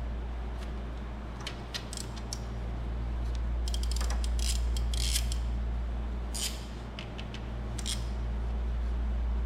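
Scattered light metallic clicks and clinks of hand tools and small engine parts being handled, bunched from about a second and a half in to near the end, over a steady low hum.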